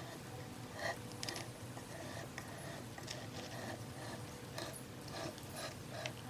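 Irregular light mechanical clicks and ticks, about one or two a second, over a faint steady hum.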